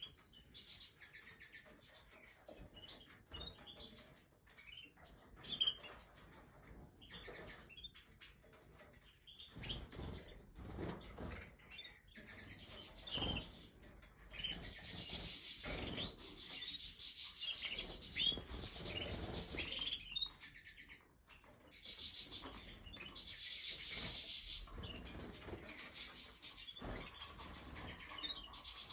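Canary singing a long, fast twittering song among shorter chirps, with occasional wing flutters.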